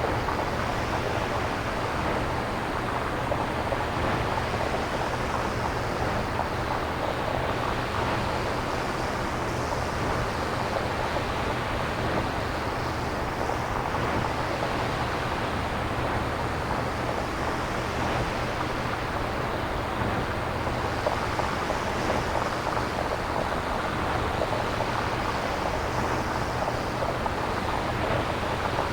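Synthesized nature-style noise: an even rushing haze like surf, swelling and easing slowly every few seconds over a steady low rumble.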